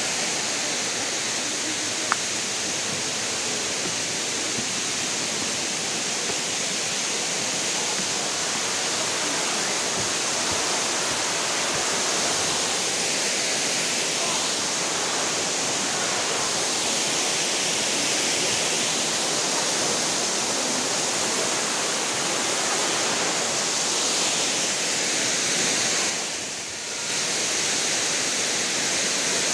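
Waterfall: a steady rush of falling water. There is one sharp click about two seconds in, and the rush dips briefly near the end.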